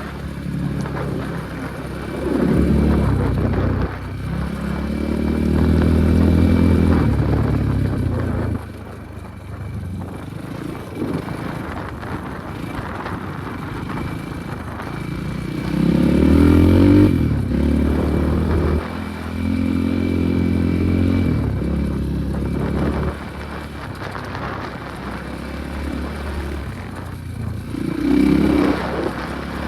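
Enduro motorcycle engine revving and accelerating in repeated surges, the pitch climbing and dropping back several times as the rider works the throttle off-road.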